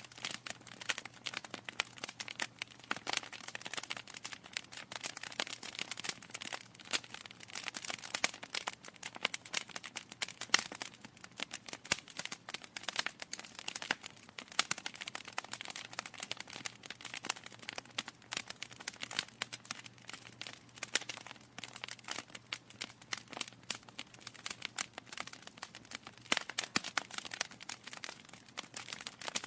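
Logs burning in a fireplace, crackling with a dense, irregular stream of small snaps and occasional louder pops.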